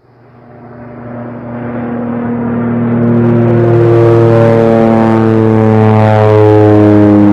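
Aircraft engine drone swelling louder over about three seconds, then holding steady as a deep, even hum that dips slightly in pitch about six seconds in.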